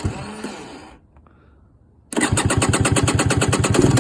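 2023 KTM 300XC TBI's fuel-injected two-stroke single engine being cold-started at 10°F. A short first burst dies away within about a second, then about two seconds in the engine catches and runs with rapid, evenly spaced firing strokes.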